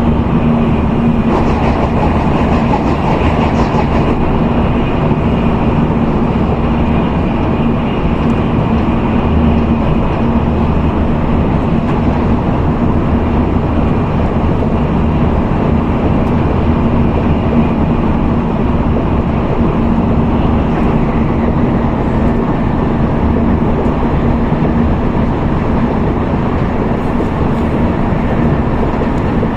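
Steady running noise of a Tokaido Shinkansen N700A train heard inside the passenger cabin: an even rumble with a steady low hum.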